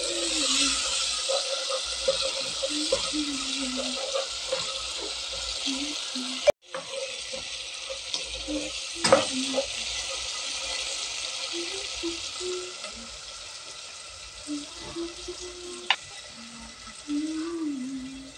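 Onion, tomato and tomato-paste mixture sizzling steadily in a pot while being stirred with a wooden spoon, with the spoon now and then knocking and scraping against the pot. The sound cuts out for an instant about six seconds in.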